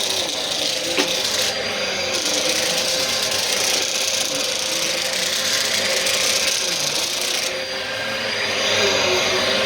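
Bissell vacuum cleaner running steadily, with a motor whine over a rushing airflow. There is a sharp click about a second in, and the sound turns brighter and hissier for about six seconds from a second and a half in.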